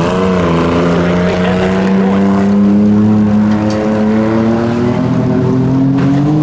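A derby compact car's engine is revved up hard and held at high revs for several seconds, its pitch creeping slowly higher, then drops off as the throttle comes off at the very end.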